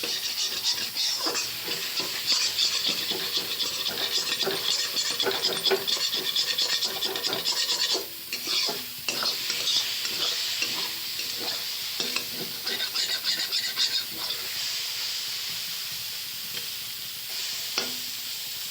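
Food sizzling in a hot pan while a metal spatula stirs and scrapes it with quick, repeated strokes. The scraping stops about 14 seconds in and the steady sizzle continues.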